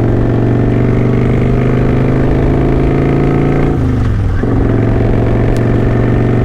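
Kawasaki Vulcan 900 V-twin motorcycle engine running steadily while riding; its note dips briefly and recovers about four seconds in.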